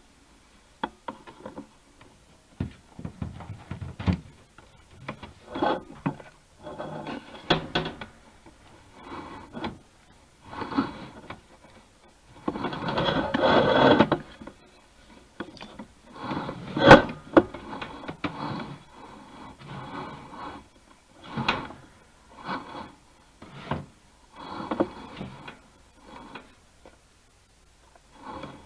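Irregular scraping and rubbing as a scope camera's cable is fed through a freshly cleaned dryer vent duct, in short pushes with one longer scrape about halfway and a sharp click a few seconds later.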